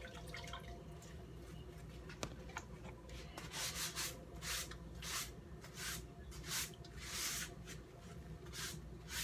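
Washing or wiping at a kitchen sink with sanitizer water: a few faint clicks, then from about three and a half seconds in, a run of short swishing, rubbing strokes, about two a second.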